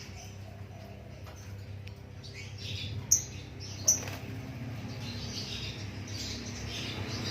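White-rumped shama (murai batu) calling in short high chirps, with two sharp, loud notes about three and four seconds in, over a steady low hum.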